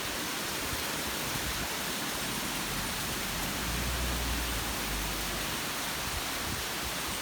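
La Coca Falls, a rainforest waterfall, rushing as a steady, even hiss of falling water.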